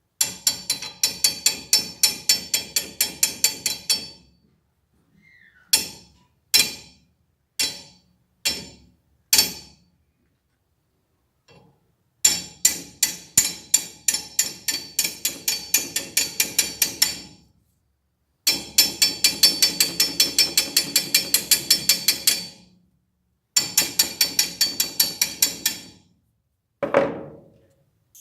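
Hammer blows on metal in fast runs of about five or six a second, with a few single blows between the runs and pauses between them.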